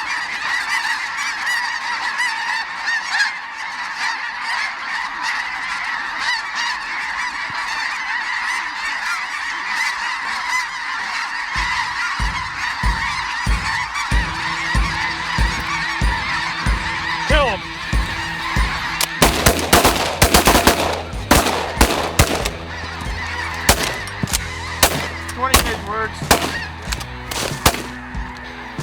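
A large flock of snow geese calling, a dense and unbroken chorus of honks. Low rumbling and sharp crackles join in about halfway through and are loudest for a few seconds after that.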